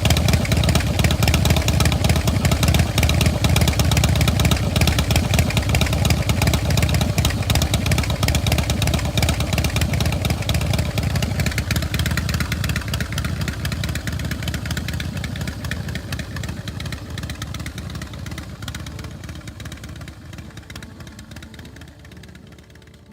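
A custom Harley-Davidson-based chopper's V-twin engine running at idle with rapid, uneven exhaust pulses. The sound fades out gradually over the second half.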